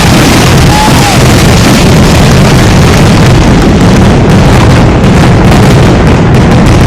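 Fireworks in a dense, continuous barrage of booms and crackling bursts, so loud that the microphone is overloaded into a constant roar, with a few short whistles.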